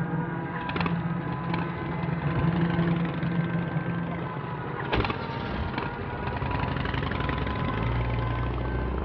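Car engine running steadily, its low note shifting lower near the end, with a sharp click about five seconds in.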